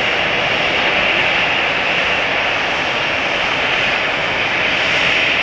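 Jet airliner engines running, a steady rushing noise that stays level with no change in pitch.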